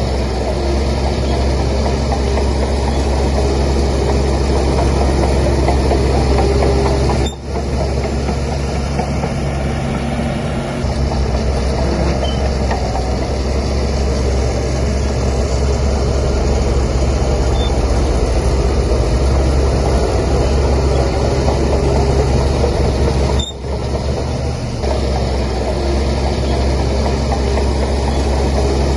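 Heavy diesel engine of a Shantui DH17C3 bulldozer running steadily, with a strong low drone and two brief dips in level, about a quarter of the way in and again near the end.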